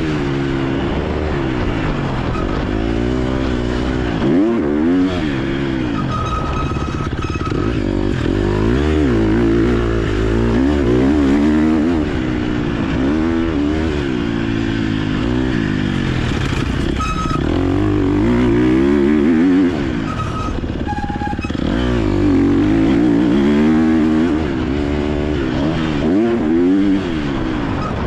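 KTM 250 SX-F motocross bike's four-stroke single-cylinder engine, accelerating hard and shutting off again and again as it is ridden, its pitch climbing and dropping every couple of seconds.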